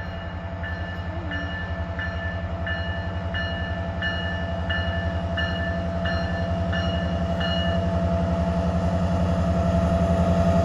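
Diesel locomotive (CPKC GP20C) running, growing steadily louder, with its bell ringing in a steady beat about every 0.7 seconds until near the end.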